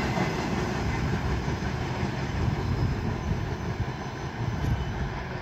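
Steady low rumble of an SBB freight train of tank wagons rolling away down the line, slowly fading.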